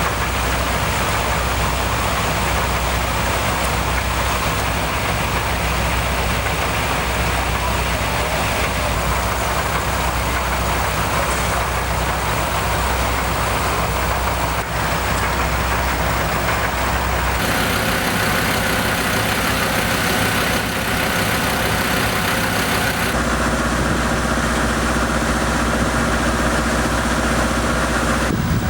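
Steady hum of idling vehicle engines. The sound changes abruptly twice in the second half.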